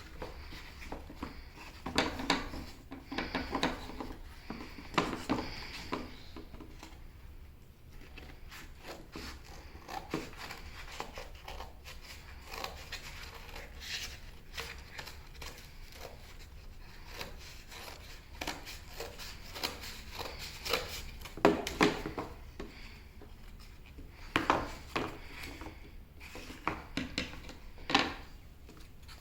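Scissors cutting a cardboard egg carton: a long run of irregular snips and crunches.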